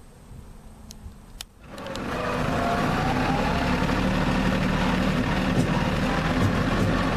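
Diesel engine of an LS G3033 compact tractor running steadily, coming in suddenly about a second and a half in after a quiet stretch with a few faint clicks.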